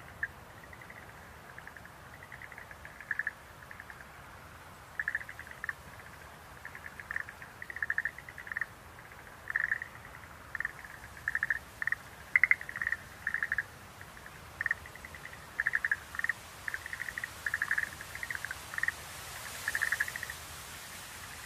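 Schlegel's green tree frogs calling: short trilling croaks, all at about the same pitch, repeated in irregular clusters throughout. A steady background hiss swells near the end.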